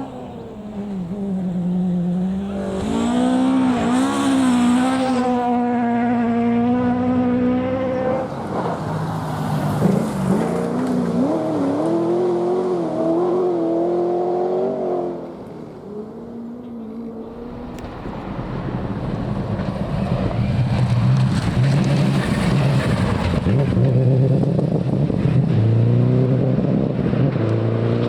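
Rally car engines revving hard at speed, pitch climbing and dropping through gear changes, with a sharp crack about ten seconds in. The engine noise fades around fifteen seconds in, then builds again as another car comes through.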